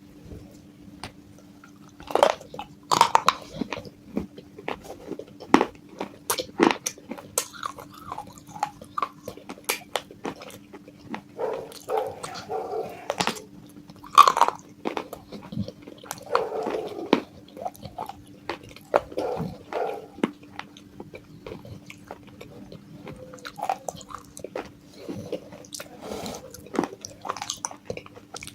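Biting and chewing pieces of broken baked clay pot close to the microphone: irregular sharp crunches with grinding chews between them. A steady low hum runs underneath.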